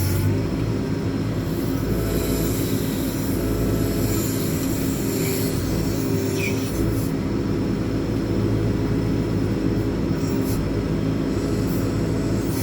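JCB 4CX backhoe loader's diesel engine running steadily while the rear backhoe arm is worked, with an added hiss partway through.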